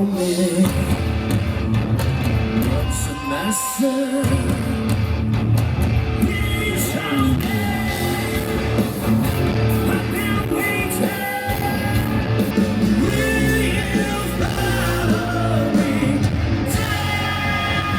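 A rock band playing live through a big concert sound system: electric guitar, a heavy low end and a singer, with yells from the crowd. The bass drops out briefly about four seconds in.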